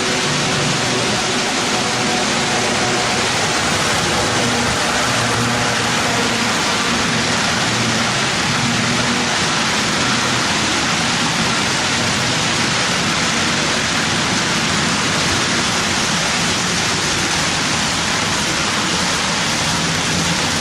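HO-scale model freight train running on the layout: a steady rumbling hiss of wheels on track, with faint low steady tones underneath.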